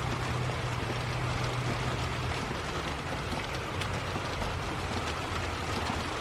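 Heavy thunderstorm rain pouring down in a steady, even hiss, with a low steady hum beneath it for the first two seconds or so.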